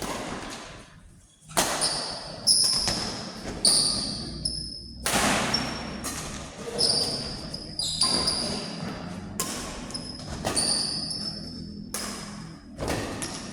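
A badminton doubles rally in an echoing hall: sharp racket-on-shuttle hits come roughly once a second, about ten in all. Short high squeaks follow several of the hits.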